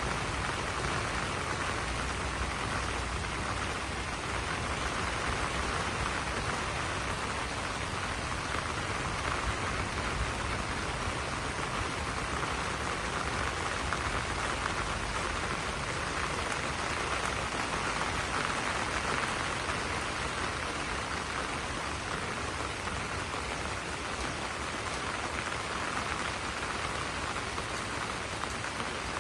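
Steady rain falling on banana leaves, an even hiss with no breaks.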